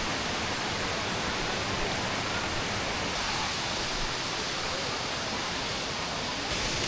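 Waterfall, its falling water making a steady, even rush of noise.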